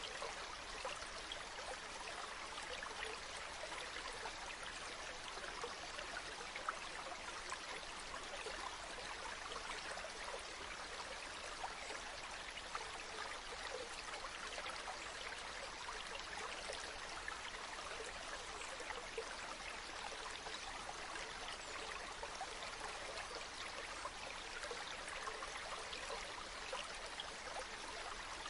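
Spring water running and falling steadily: an even, light rush with fine splashing and little deep rumble.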